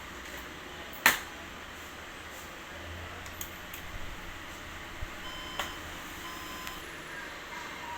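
A sharp click about a second in, then two short electronic beeps from an HP desktop's system speaker a second apart: the computer's power-on beep-code diagnostics, sounded while a memory fault is being traced.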